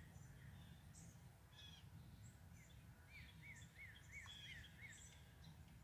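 Faint songbirds chirping over a low steady background rumble. About halfway through, one bird repeats a short whistled note six times in quick succession.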